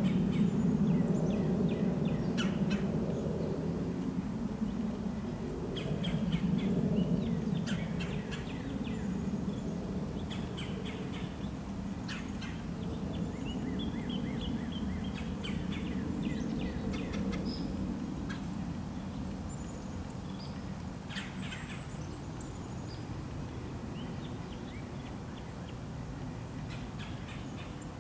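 Small birds chirping in short, scattered calls, over a low rumble that slowly fades.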